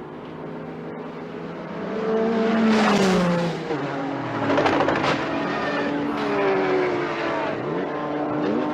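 Several race car engines at high revs passing close by, each dropping in pitch as it goes past. The loudest pass-bys come about three and five seconds in.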